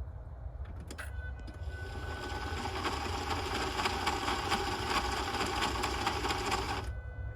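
1981 VW Rabbit starter energised with the key: a click, then a steady mechanical whir for about six seconds that stops abruptly, with the engine not catching. The owner hears it doing the same thing as when the starter was jumped straight off the battery, where it did not seem to shoot out and spin.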